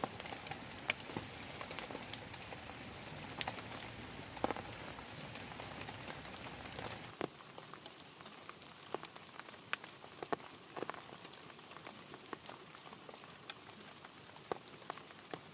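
Rain falling, a steady hiss with many scattered drops ticking on a plastic tarp shelter. About halfway through the hiss drops suddenly to a quieter level while the drop ticks go on.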